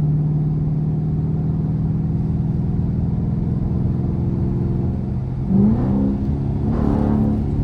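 A car engine running steadily under way, heard from inside the car, then revving up twice, with a rise in pitch a little over five seconds in and again about a second later.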